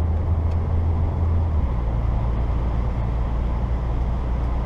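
Saturn SL2's twin-cam four-cylinder engine droning inside the cabin while driving on snowy roads, over steady road noise. The engine note drops to a lower pitch about a second and a half in.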